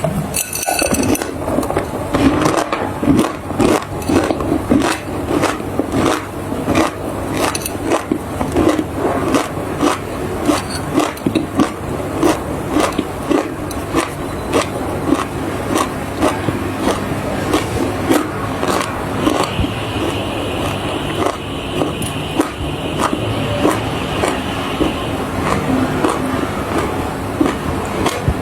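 Dry clay being crunched: many crisp, irregular crunches in quick succession, over a steady low hum.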